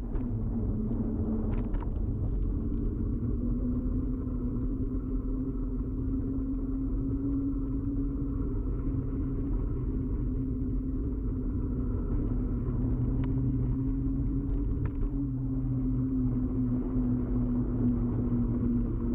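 Ride noise picked up by a camera fixed to a bicycle: a steady low rumble of road vibration with a humming tone that drifts slightly in pitch, and a few brief clicks.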